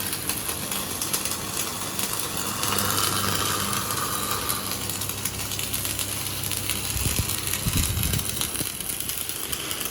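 An engine idling steadily under a hiss, with a few low thumps about seven to eight seconds in.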